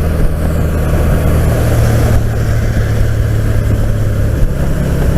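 Steady wind and road noise on a helmet-mounted boom microphone while a Can-Am Spyder RT three-wheeler rides at speed, under a constant low engine drone.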